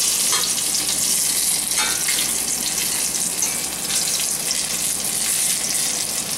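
Breaded patties sizzling steadily in hot oil in a stainless steel sauté pan. A metal spatula and fork clink briefly against the pan a couple of times as the patties are turned.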